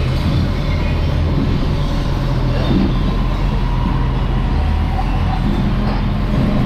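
Truck engine running steadily with road noise.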